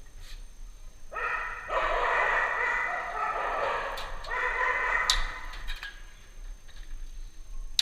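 A dog whining in long, drawn-out calls, each a second or more, starting about a second in and fading out before the end.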